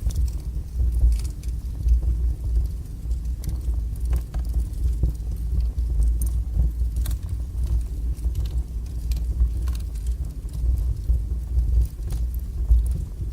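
Wood fire burning strongly in a fireplace: a steady low rumble of the flames, with frequent small crackles and pops from the burning logs.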